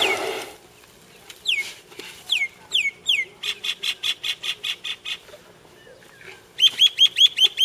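An elephant blows dust over itself from its trunk, a short whoosh at the start. Then a bird calls loudly: four quick falling whistles, a rapid run of about a dozen sharp notes, and near the end another rapid run of hooked notes.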